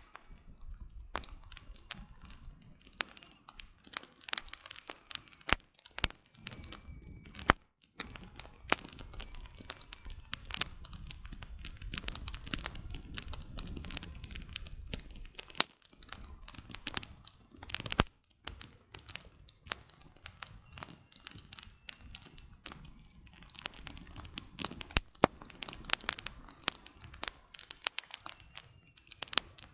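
Wood campfire burning, firewood crackling and popping in a dense, irregular stream of sharp snaps, over a low rumble that is strongest around the middle.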